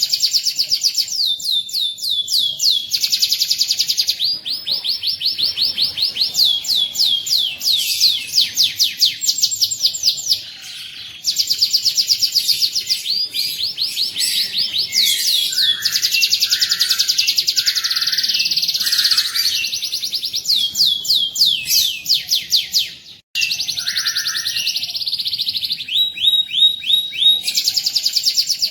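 Canary singing a continuous song of rapid trills (rolls), each made of fast-repeated falling notes, switching to a new trill every few seconds, with two short breaks partway through.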